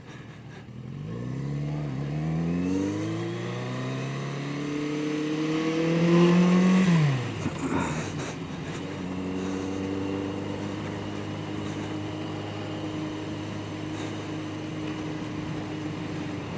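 Yamaha XJ750 Seca's air-cooled inline-four engine accelerating. The revs rise, dip briefly at a gear change about two seconds in, then climb for several seconds before dropping sharply about seven seconds in as the throttle closes. After that it runs at a steady cruising pitch.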